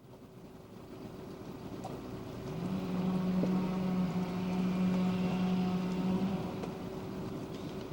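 A motor running steadily, growing louder over the first few seconds, with a low hum that comes in about two and a half seconds in and drops out about six seconds in.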